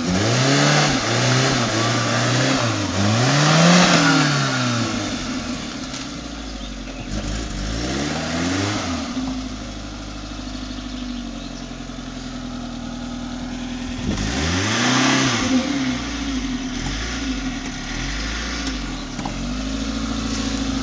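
Suzuki Samurai's engine revved hard under load while climbing a muddy slope, rising and falling in pitch in repeated surges, with three big surges (near the start, about 8 s in and about 15 s in) and lower, steadier running between.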